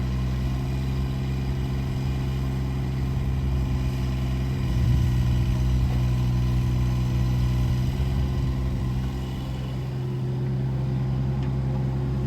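Kubota U17 mini excavator's small three-cylinder diesel engine running steadily, getting louder for a few seconds midway and easing off about nine seconds in.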